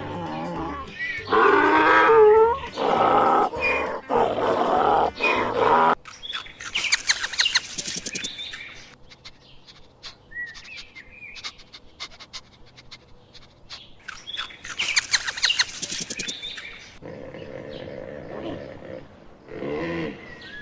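Cats meowing and yowling: long calls that rise and fall in pitch, loud through the first few seconds and again near the end. Two spells of rapid, sharp high clicking come in between.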